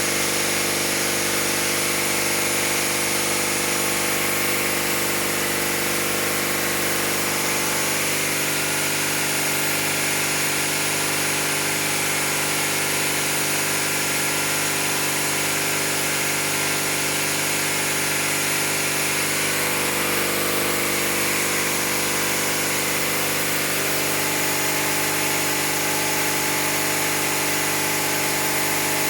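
Fire pump engine running steadily at constant speed during a pump test, with a high hiss over the engine note.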